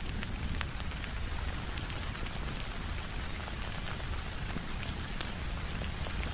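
Steady rain on a window glass, a continuous patter with a low rumble beneath it. Sharp little ticks and pops are scattered all through it.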